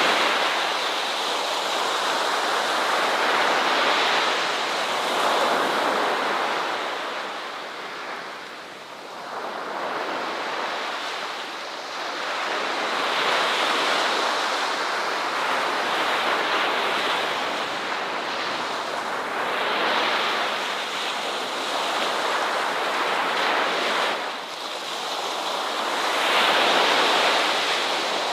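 Ocean waves breaking and washing up a beach, a steady surf hiss that swells and ebbs every few seconds.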